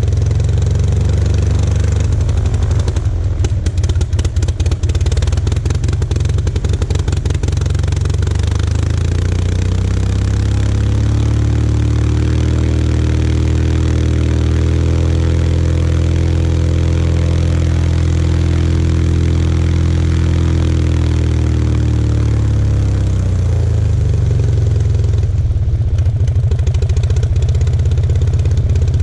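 Aeronca C2's small flat-twin aircraft engine running on a ground run, firing unevenly for a few seconds early on. About ten seconds in it is opened up, the pitch rising and holding, then throttled back down near the end.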